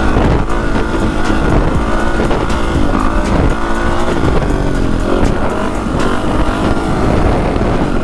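450 cc four-stroke dirt bike engine revving up and down repeatedly as the rider clutches up into a wheelie, over a heavy low rush of wind on the microphone.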